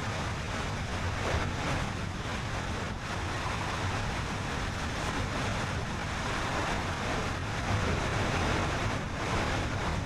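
Steady road noise of a car driving: low tyre rumble with wind rushing past.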